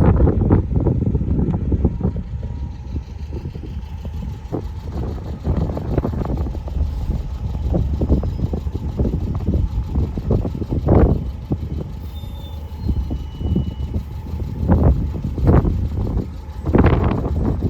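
Vehicles going by with a low rumble, and wind buffeting the microphone in irregular gusts.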